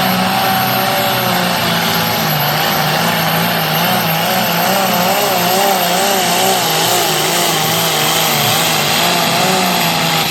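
Turbocharged diesel pulling tractor at full power hauling the weight-transfer sled down the track, the engine note loud and steady, then wavering rapidly up and down through the middle of the run as the tractor works under load.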